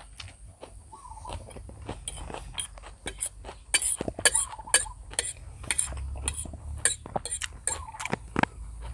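Cutlery clinking and tapping against a dish while eating, a quick run of sharp clicks through the middle.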